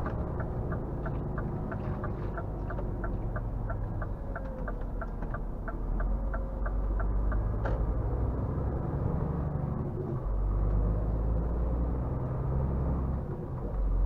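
Scania R450 truck's 13-litre straight-six diesel running low, with the turn-signal indicator ticking about three times a second until nearly eight seconds in. The engine gets louder around six seconds and again around ten seconds as the truck pulls on.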